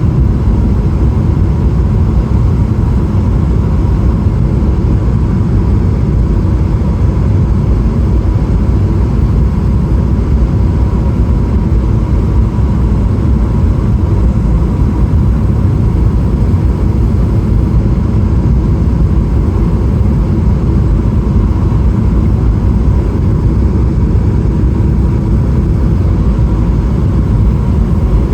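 Steady cabin noise of a Boeing 777-300ER in flight: a loud, even low rumble of engine and airflow, with a faint steady tone above it.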